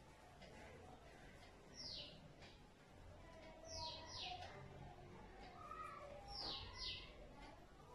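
A small bird chirping faintly: five short chirps that fall in pitch, one alone and then two quick pairs.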